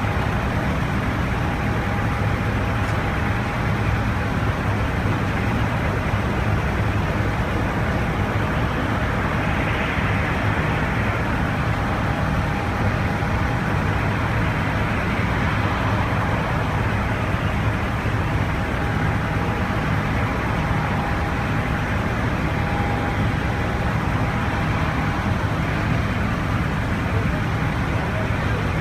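Steady rumble and hiss inside a jet airliner's cabin with the engines running, with a faint steady whine that comes and goes.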